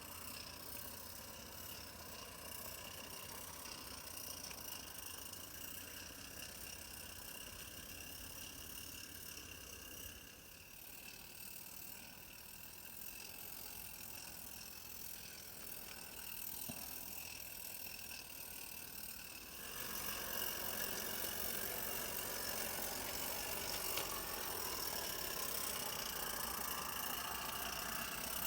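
A mountain-railway train running steadily, its running noise growing clearly louder about two thirds of the way in.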